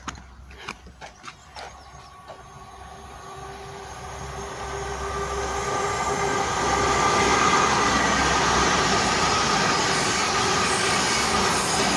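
A train approaching on the line, with a few sharp clicks in the first two seconds, then its rumble and wheel noise growing steadily louder until about seven seconds in and staying loud as it passes.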